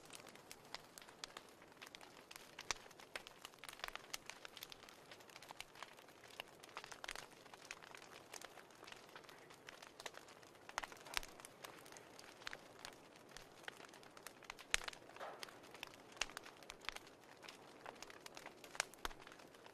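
Fireplace crackling: irregular small pops and snaps, several a second, over a faint steady hiss.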